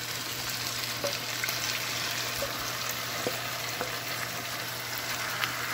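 Marinated chicken sizzling steadily in a hot pan of oil, fried onion and tomato, with a few light clicks of a wooden spoon stirring it.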